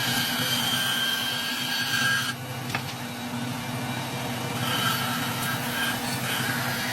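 Bandsaw running and cutting wood, with a steady whine that drops out for about two seconds in the middle, and a single sharp click in that gap.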